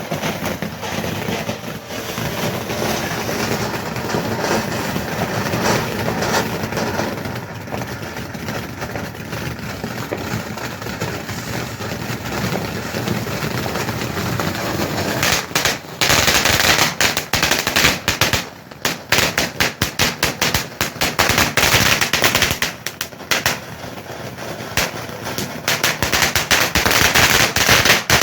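A 65-gram firework going off in a rapid, continuous run of bangs and pops. From about sixteen seconds in it turns louder, with dense crackling.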